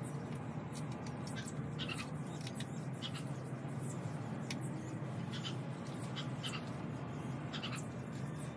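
Small birds chirping in short, high, irregular calls over a steady low background rumble.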